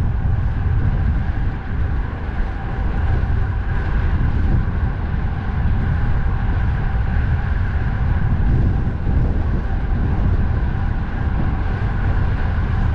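Strong wind rumbling on the microphone of a bicycle on the move, over steady road and traffic noise with a faint constant whine.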